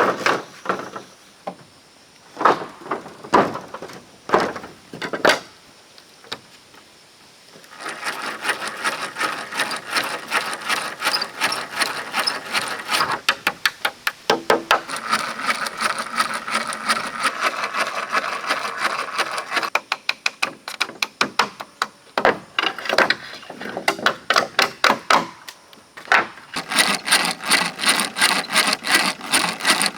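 Wood being worked with hand tools: a few sharp chopping strikes, a short pause, then long runs of rapid rasping strokes broken by scattered knocks.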